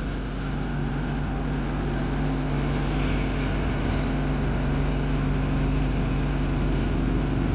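A vehicle engine running steadily with an even low hum, holding one speed throughout.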